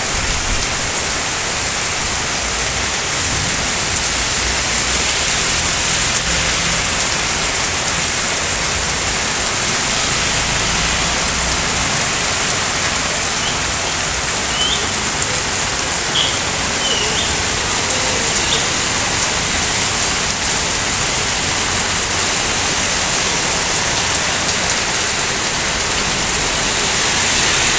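Cloudburst-like heavy rain pouring onto a street, a steady, dense hiss.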